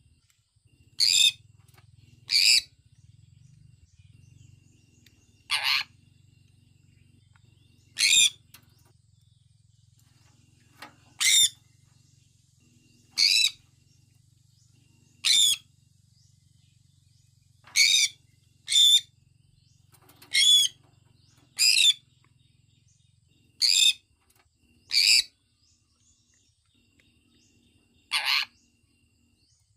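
Sun conure chirping: over a dozen short, loud, high-pitched calls, each under half a second, coming at irregular gaps of one to three seconds, over a faint low hum.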